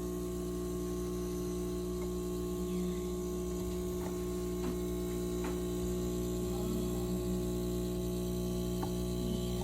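Donlim espresso machine running steadily during extraction, a constant electric hum as the espresso flows out.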